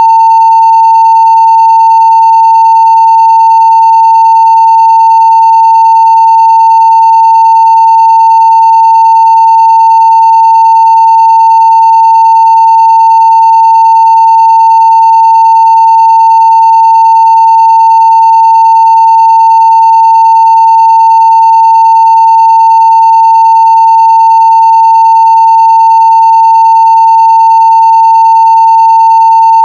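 Steady 900 Hz sine-wave test tone at full level (0 dB), one unbroken pure pitch that never changes.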